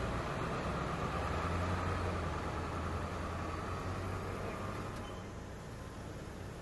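Ford Explorer SUV's engine running with a low hum as the vehicle creeps forward a short way at low speed and stops. The engine sound falls away about five seconds in.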